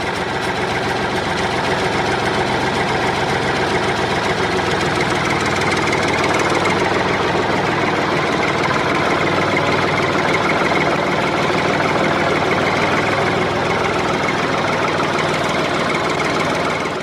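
Tractor engine idling steadily, with no change in speed, and fading out right at the end.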